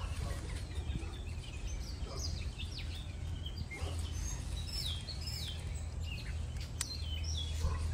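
Small birds chirping: many short, quickly falling chirps, thickest around the middle, over a steady low rumble.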